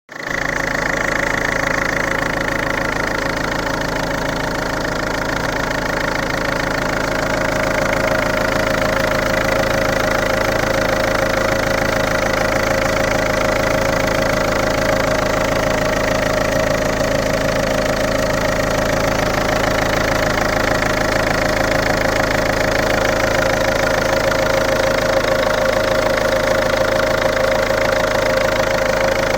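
2007 Ford Fusion's 1.4 TDCi four-cylinder diesel engine, with 268,000 km on it, idling steadily with no revving.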